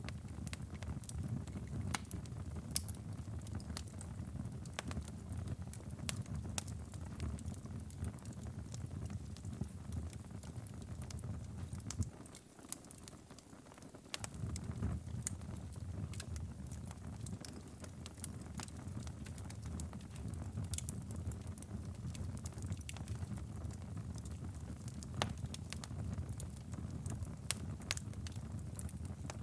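Wood fire crackling and popping, scattered sharp pops over a low steady rumble. The rumble drops out for about two seconds about halfway through.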